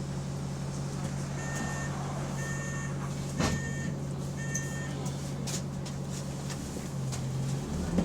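Diesel engine of a bus with an exhaust leak, idling with a steady low hum. Four short electronic warning beeps sound in the first half, and a sharp knock comes about three and a half seconds in. The engine note shifts near the end.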